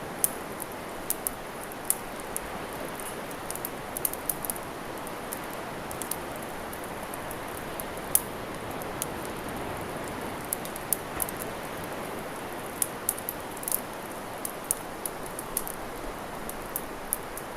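Wood fire crackling, with sharp, irregular pops and snaps, over a steady wash of sea waves.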